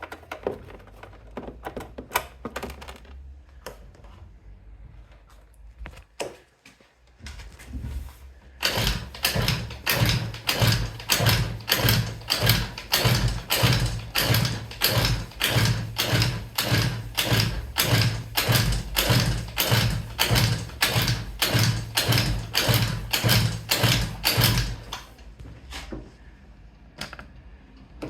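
Scattered light clicks and knocks, then a long, steady series of heavy mechanical knocks at a little over two a second that stops near the end.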